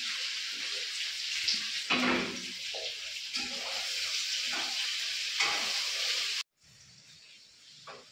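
Food sizzling in hot oil in a kadai on a gas stove, with a metal spatula scraping and knocking against the pan as it is stirred. The sizzle cuts off abruptly about six seconds in.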